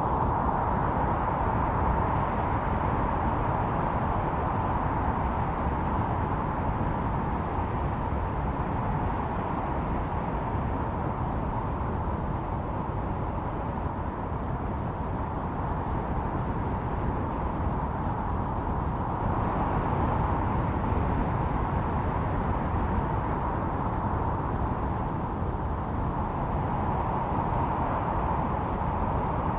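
Howling blizzard wind: a steady rushing noise with a whistling mid-pitched tone that slowly swells and eases, loudest about two-thirds of the way through.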